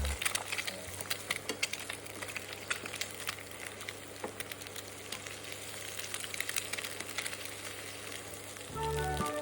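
Food frying in a pan: a steady sizzle with irregular little crackles and pops. Background music comes back in near the end.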